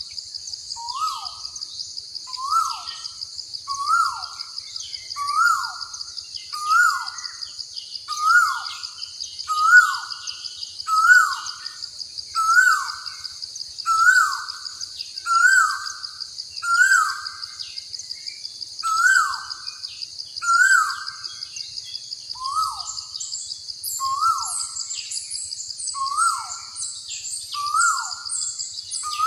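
Nature ambience of a bird calling over and over, one short note that rises and then drops, about every second and a half. Under it runs a steady high buzz, and smaller birds chirp higher up near the end.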